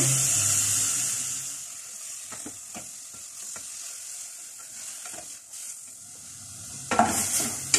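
Marinated chicken pieces sizzling in hot oil in a stainless steel saucepan while a wooden spoon stirs them, with light knocks of the spoon against the pan. The sizzle is loud at first, dies down over the first two seconds, and comes up loud again near the end.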